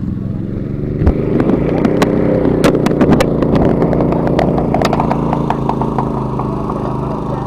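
A vehicle engine running steadily, with a cluster of sharp clattering knocks in the first few seconds.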